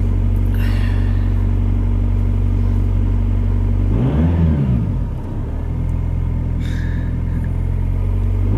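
2005 Volkswagen Passat's four-cylinder BHW TDI diesel idling while it warms up after a cold start. About four seconds in it is revved once, rising and dropping back, then settles into a steady idle.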